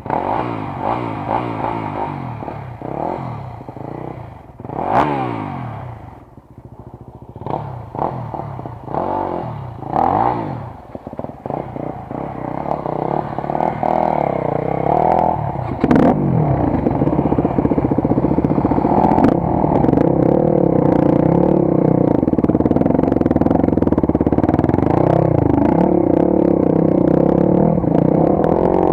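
Motorcycle engine revving up and down again and again over the first dozen seconds, with a few sharp knocks, then running steadily at an even speed for the rest.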